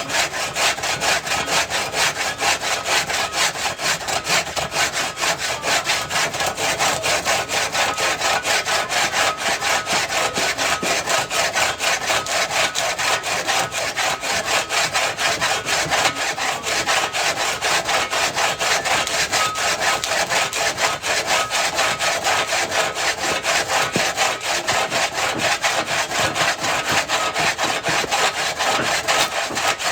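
Wood being sawn by hand, the saw going back and forth in quick, even strokes without a break.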